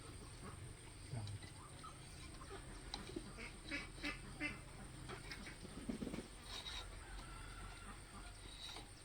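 Faint clucking and calling of domestic poultry, in short scattered notes, with a few light knocks mixed in.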